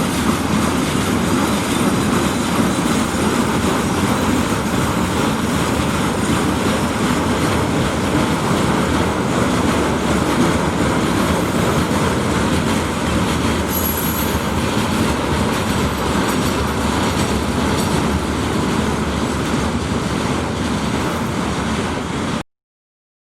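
Freight train rolling past close by: a steady, loud rumble of wagon wheels on the rails that cuts off suddenly near the end.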